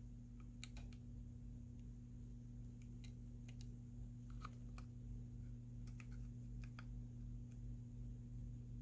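Faint, scattered small clicks and taps of a tool against phone parts while the charging-port board is being pried up, about nine over the stretch, over a steady low hum.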